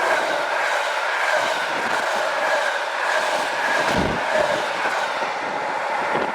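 Train passing close by on the line: a steady rolling noise of wheels on rails, with a faint steady whine running through it.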